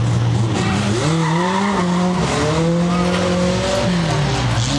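Pro 4 race truck engines running hard on a short asphalt oval. Their pitch drops and climbs again as the drivers lift and get back on the throttle: once about a second in, briefly past two seconds, and in a longer fall near the end.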